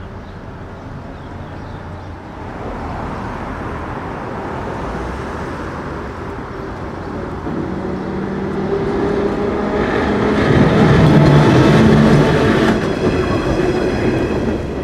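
Perley Thomas streetcar running past on its rails: a rolling rumble with a steady whine that grows louder to a peak about two-thirds through, then eases off.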